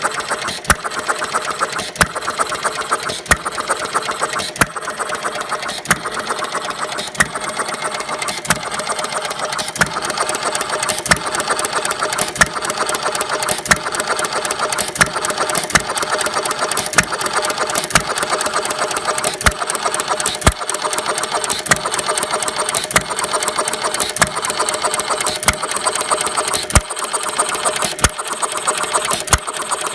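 1/3-scale Galloway hit-and-miss engine running: a sharp firing pop about every second and a quarter, with a steady fast mechanical clatter between the pops.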